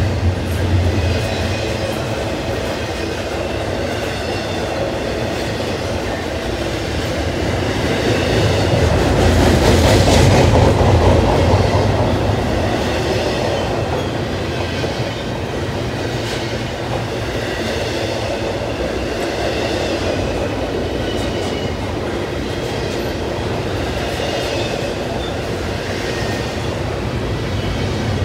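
Double-stack intermodal container train rolling past: a steady rumble and clatter of the well cars' wheels on the rails, swelling louder about ten seconds in. Faint high-pitched wheel squeal comes and goes over the rumble.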